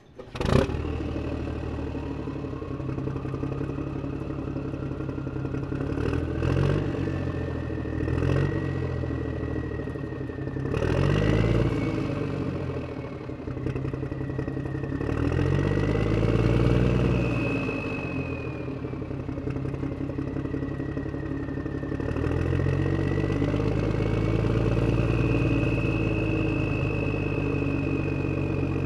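An engine running steadily after a click at the start, its pitch rising and falling several times as it is revved, with a thin whine above it.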